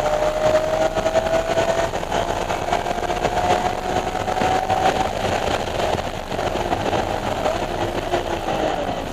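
BMW E46 M3's straight-six engine running at low, moderate revs, its tone rising slowly before levelling off.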